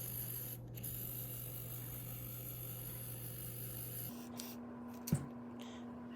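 3D pen running as it extrudes filament: a steady low hum with hiss. About four seconds in, the hum changes abruptly to a different steady tone, and a single click follows about a second later.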